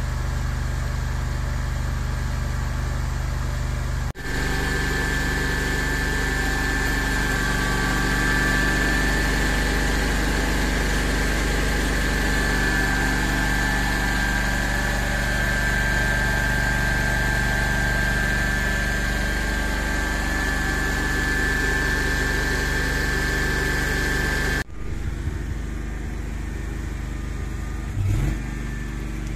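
An engine-driven machine runs steadily with a low hum, typical of grouting equipment filling a borehole. A steady high whine joins it abruptly about four seconds in and cuts off near the end.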